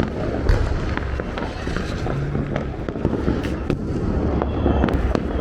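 Firecrackers and fireworks going off all around: a dense, continuous run of pops and cracks with scattered sharper bangs over a steady low rumble.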